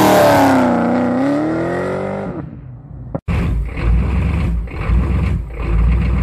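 A modern Dodge Challenger's engine revving hard during a burnout, its pitch dipping and climbing again before fading out about two and a half seconds in. After a brief break, a heavy low engine rumble with a few surges, from an old pickup truck with tall exhaust stacks.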